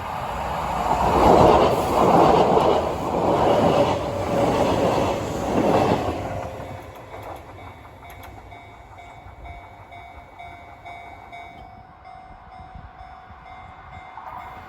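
A Kintetsu electric train passing over a level crossing, its wheels clattering in a series of loud surges. The noise falls away about six seconds in, leaving the crossing's warning bell ringing faintly.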